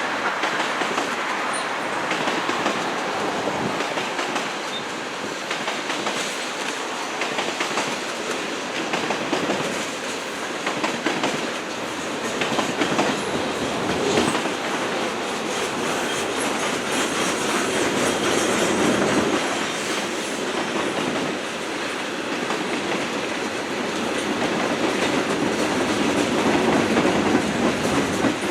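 A train's cars rolling steadily past, wheels clicking rhythmically over rail joints.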